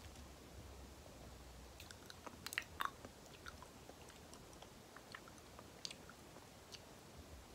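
Close-miked chewing of banana: soft, wet, sticky mouth clicks and smacks, scattered, with a quick cluster of louder smacks about two and a half seconds in.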